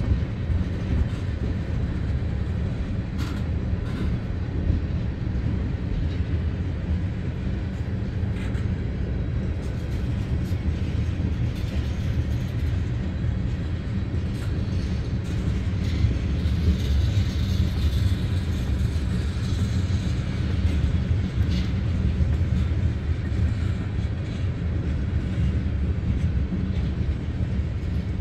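Freight train of tank cars rolling past: a steady low rumble of wheels on rail, with occasional sharp clicks.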